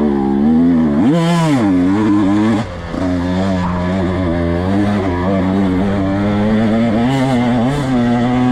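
Dirt bike engine running under changing throttle. The revs drop and climb sharply about a second in, then hold fairly steady with small rises and falls.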